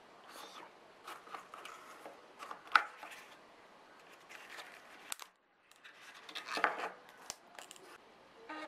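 Small handling noises: irregular rustling, scraping and clicks, the loudest a sharp click nearly three seconds in, with a short break to silence a little past halfway.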